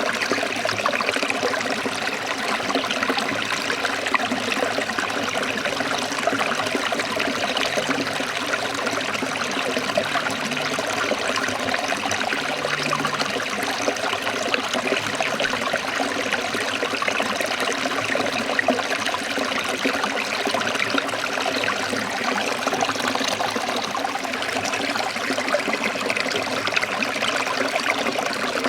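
Forest stream trickling and splashing over rocks in a steady, unbroken rush of water.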